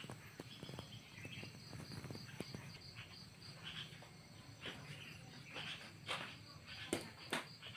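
Insects chirping steadily with high thin tones, with scattered light clicks and knocks, a few sharper ones near the end.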